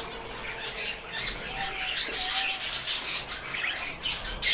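Caged pet birds chirping: many short, high calls overlapping, with a louder call near the end.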